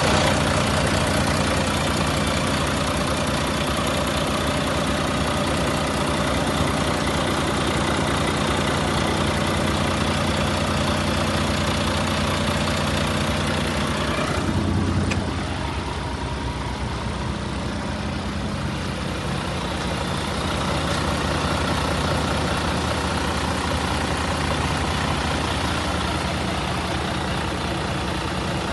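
Volvo 400-series car engine idling steadily. About halfway through, the engine note changes suddenly and drops in level, then settles into a quieter steady idle.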